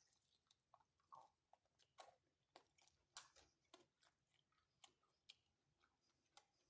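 Faint chewing of a sauce-dipped bite of chicken pizza: scattered soft mouth clicks and smacks.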